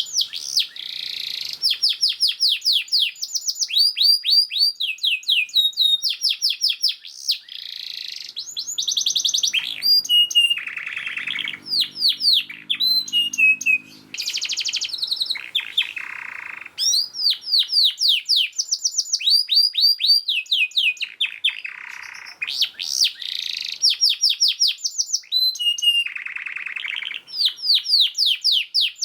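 Domestic canary singing a fast, tightly packed song: rapid trills of repeated falling notes, broken every few seconds by lower, buzzier phrases.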